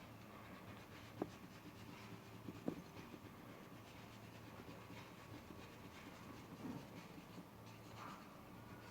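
Faint scratching of a crayon rubbed back and forth on paper while colouring. Two light clicks, one about a second in and another about a second and a half later.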